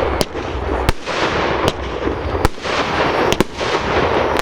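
Fireworks display going off: a continuous crackling barrage with a sharp bang roughly every second.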